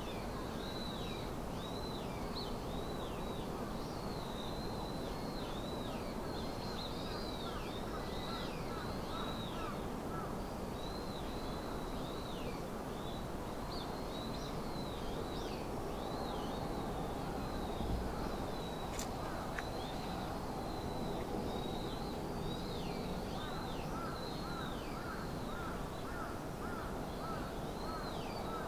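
Birds calling over and over with short, high calls that drop in pitch, over a steady hiss of distant background noise.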